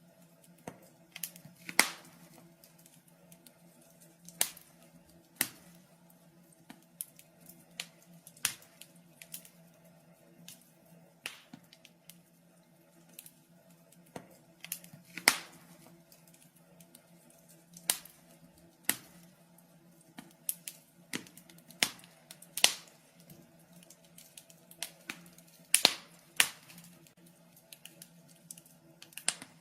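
Wood fire crackling in a fireplace: irregular sharp snaps and pops, a few much louder than the rest, over a faint steady low hum.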